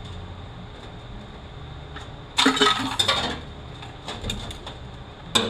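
Sharp metallic clinks and scraping as a steel snap ring is pried out of a 545RFE transmission with a scribe: a cluster of clinks about two and a half seconds in and another single clink near the end.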